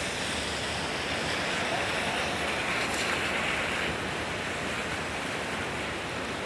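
Steady hiss of a rainy city street: rain and traffic tyres on wet pavement, a little louder in the first few seconds.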